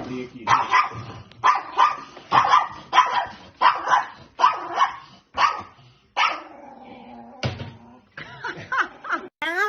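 A dog barking in a rapid series of short barks, then one longer drawn-out call a little past halfway, and a few more barks near the end.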